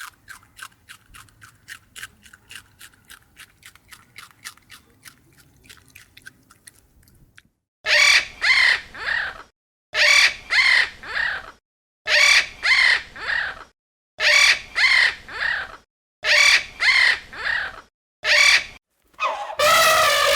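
A bird calling loudly in groups of three, the groups about two seconds apart. Before the calls there is a fast run of faint ticks, about three a second, that stops about seven seconds in.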